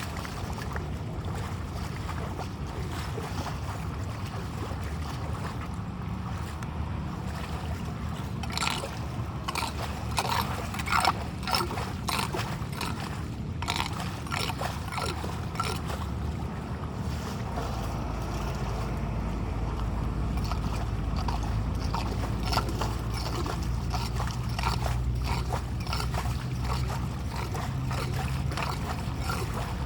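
Storm water flowing and gurgling, with a low rumble of wind on the microphone. From about eight seconds in there is a scatter of short, sharp splashes and knocks.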